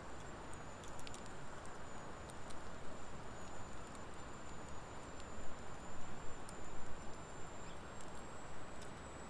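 Wood fire of driftwood and dry hardwood logs burning in a fire pit, crackling with scattered sharp pops over a steady low hiss; the pops come thickest about five to seven seconds in.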